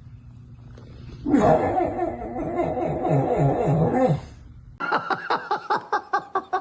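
A dog making a rhythmic, wheezy, laugh-like sound in repeated pulses, about three a second, like an engine cranking on its starter motor. It starts about a second in and lasts about three seconds.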